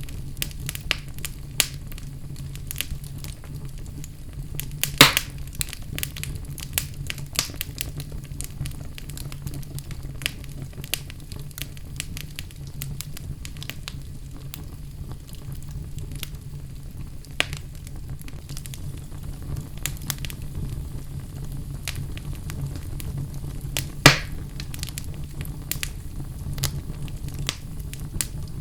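Wood fire burning in a fireplace: frequent small crackles over a steady low rumble, with two louder pops about five seconds in and near the end.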